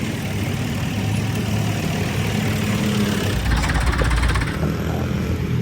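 Tractor engine running steadily, with a louder rattling burst of rapid clicks about three and a half seconds in that lasts about a second.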